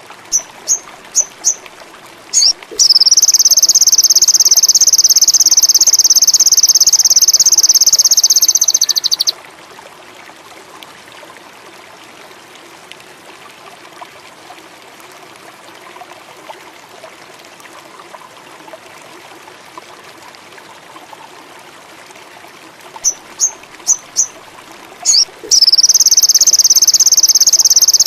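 Sogon bird song: four or five quick, short, high notes, then a long high trill held for about six seconds. The pattern repeats after a pause of about fourteen seconds, over a faint trickling-water background.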